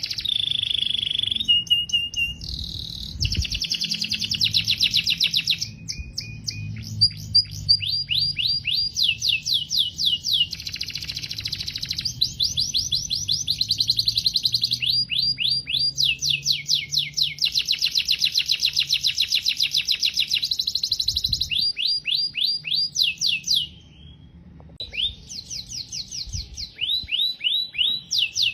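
Domestic canary singing: long, fast trills of rapidly repeated high chirps, one phrase running into the next, with a brief pause near the end.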